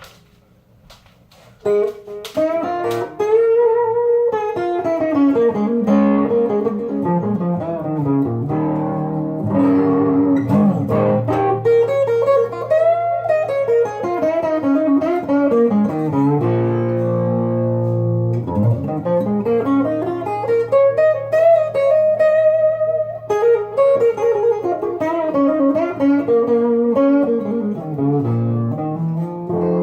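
Wolf KSA-50 electric guitar played through a Boss Katana 50 amp with a TS9 overdrive, tone knob rolled all the way down for a 'woman tone': sustained lead lines with string bends and descending runs, starting about two seconds in.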